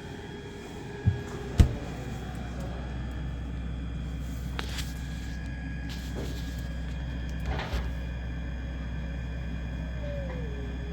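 Two knocks, then a refrigerator compressor starts and runs with a steady low hum, with a few faint clicks later on.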